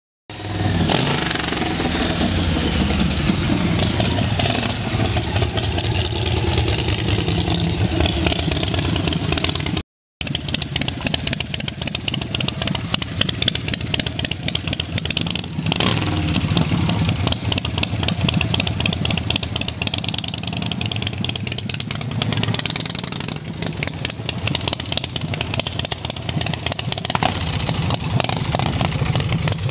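Custom chopper motorcycle's engine running steadily, with a brief complete dropout about ten seconds in.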